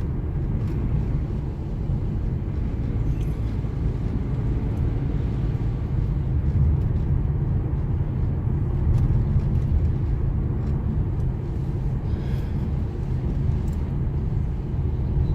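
Steady low rumble of a moving car's engine and tyres, heard from inside the car.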